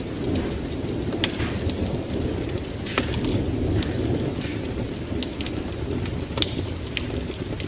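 Wood fire in a fireplace crackling: sharp, irregular pops several times a second over a steady low rush.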